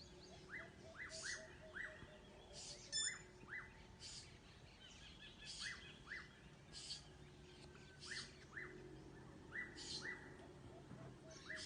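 Birds chirping faintly: short, high, falling calls repeated every second or so, often in quick pairs.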